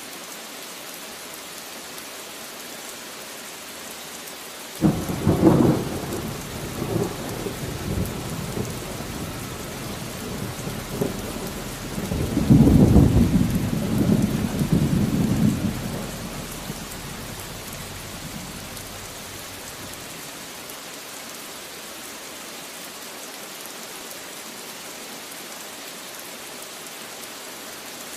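Steady rain falling, with a thunderclap about five seconds in whose low rumble rolls on, swells again to its loudest a few seconds later, then dies away, leaving only the rain.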